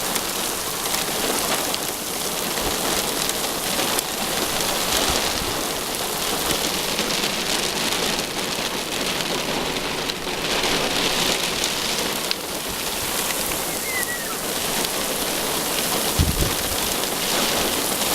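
Heavy thunderstorm rain pelting a car, a dense steady hiss that swells and eases every few seconds, with a brief low thump near the end.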